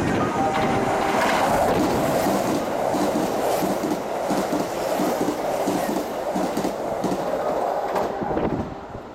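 Eight-car Kintetsu limited express, a 22600 series Ace coupled to a 12410 series, passing through the station at high speed. A rushing wheel-and-air noise with a rhythmic clatter of wheels over rail joints, several a second, dies away about eight and a half seconds in as the last car clears.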